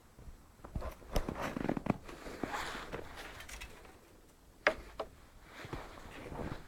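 Footsteps and handling noises: scattered, irregular clicks and knocks with some rustling, the sharpest knock about four and a half seconds in. No engine is running.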